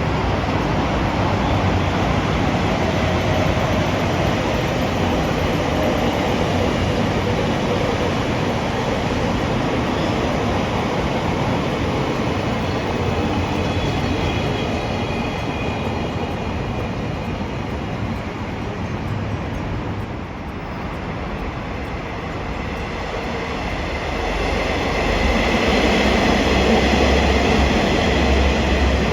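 Train running along the tracks: a steady rush of wheel and rail noise, with faint high whining tones in the middle and a louder low rumble building near the end.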